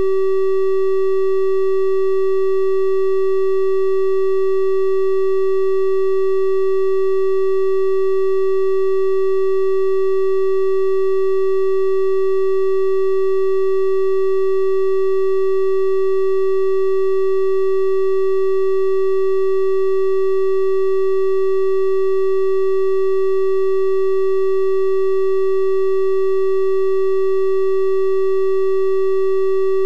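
Steady electronic 384 Hz triangle-wave tone, held at one unchanging pitch, with faint higher overtones.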